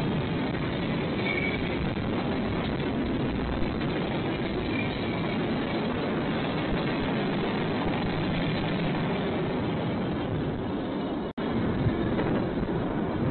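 A train rolling past, a steady noise of railroad cars running on the track, with a momentary dropout about eleven seconds in.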